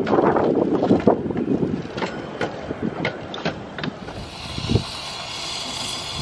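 Coaches of a 15-inch-gauge miniature railway rolling past with a low rumble and irregular clicks and knocks from the wheels, easing off toward the middle. From about four seconds in, a steady hiss of steam from a standing steam locomotive takes over.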